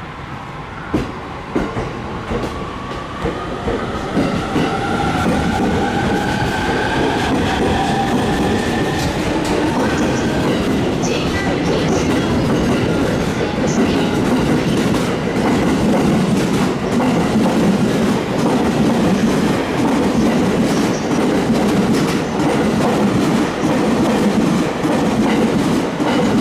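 Electric train on the JR Tokaido Line picking up speed: its motor whine rises steadily in pitch over the first ten seconds as the sound grows louder, then the wheels clatter over the rail joints with a loud rumble as the cars roll past.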